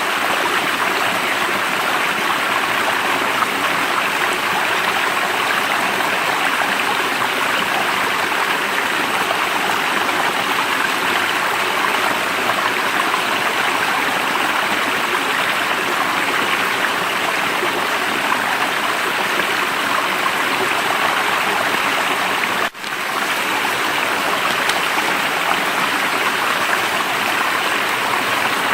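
Steady rushing of flowing stream water, with a brief dropout about three-quarters of the way through.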